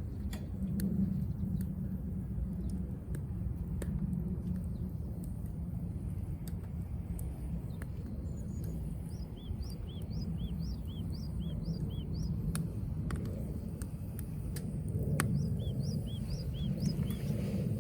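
Wood fire crackling with scattered sharp pops over a steady low rumble. A bird repeats a short chirp a few times a second in two runs, about halfway through and again near the end.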